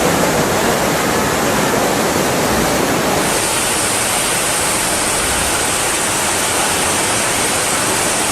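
Loud, steady rush of water, a constant hiss with no breaks. About three seconds in, a sharper high hiss joins it.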